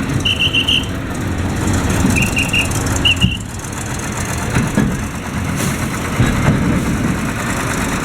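Short trilling blasts of a pea whistle, three or four within the first few seconds, over the steady rumble of vehicle engines idling and moving.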